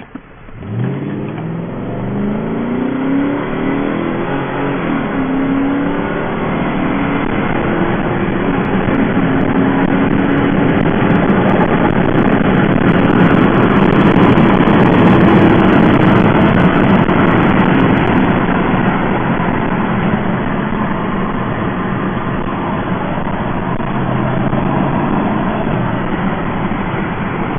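BMW 740i accelerating hard, its engine climbing in pitch in steps over the first few seconds, then running on loud and steady, loudest around the middle. The engine has a misfire.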